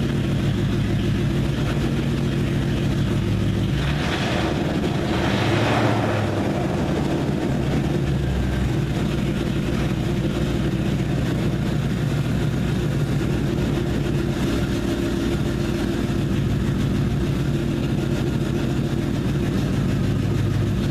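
Ford Mustang GT's 4.6-litre V8 running loud on straight pipes with no mufflers, with a miss that comes from crossed spark plug wires on cylinders 5 and 6.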